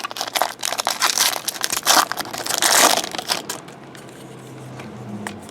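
Crinkling and crumpling of a trading-card pack's foil wrapper being handled and opened, dense for about three seconds, then dying down to a few faint clicks.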